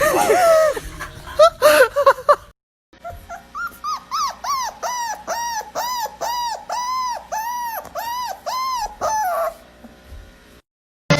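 Dog whimpering and yipping, then, after a brief break, a steady run of short whines that rise and fall in pitch, about two a second.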